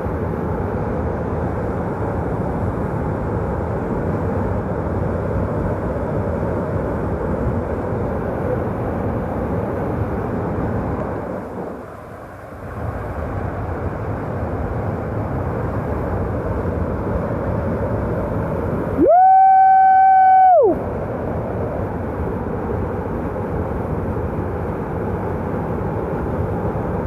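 Whitewater rushing steadily around a kayak running a rapid, the noise dropping away briefly about twelve seconds in. Around twenty seconds a loud, steady high tone with overtones sounds for under two seconds, sliding up at its start and down at its end.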